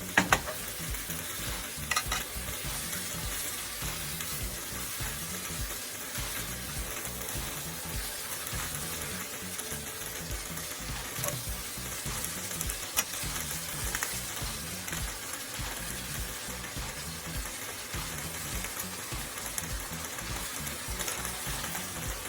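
Udon noodles stir-frying in a pan with their sauce: a steady sizzle, with the scrape and sharp knocks of a utensil against the pan, loudest just after the start and about two seconds in.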